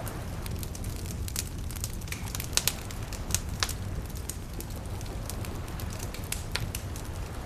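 Wood fire crackling, with irregular sharp pops, a few louder ones a couple of seconds in, over a steady low rumble.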